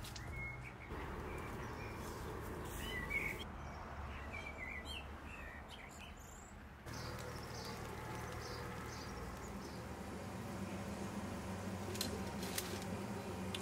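Birds chirping with short high calls over steady background noise; the background changes abruptly about seven seconds in.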